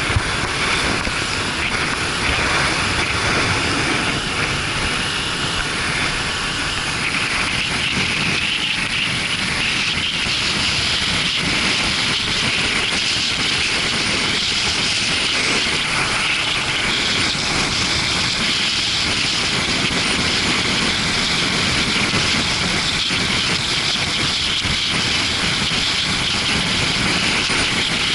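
Steady wind rush and engine noise from a Suzuki GW250 Inazuma motorcycle under way, with the wind noise heaviest in the upper range throughout.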